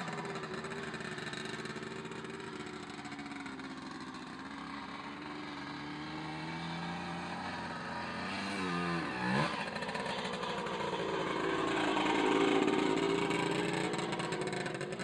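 Puch MC 175 two-stroke single-cylinder motocross engine running, its pitch rising over several seconds, then briefly swooping up and down about nine seconds in, and getting louder again a few seconds later.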